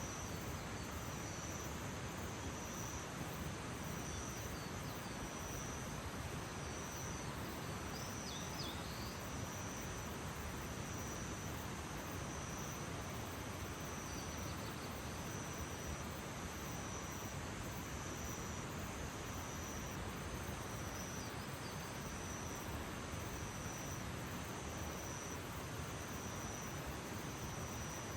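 Early-morning outdoor ambience: a steady hiss under a high-pitched insect trilling in pulses about once a second. A faint bird chirps briefly about a third of the way in.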